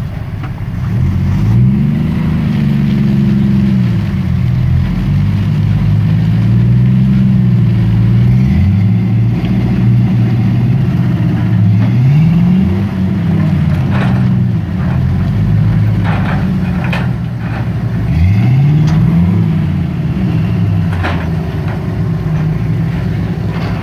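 Jeep Cherokee XJ's engine revving up and settling back about four times under load as it tries to climb over boulders. A few sharp knocks come in the second half.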